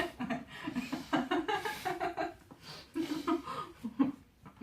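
People laughing in a run of short chuckles that die down near the end.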